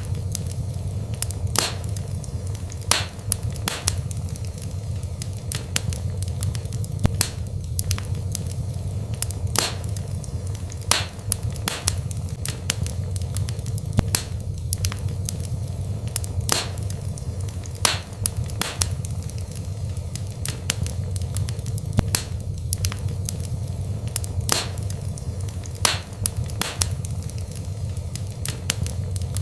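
Wood fire burning in a fireplace: irregular sharp crackles and pops several times a second over a steady low rumble of the flames.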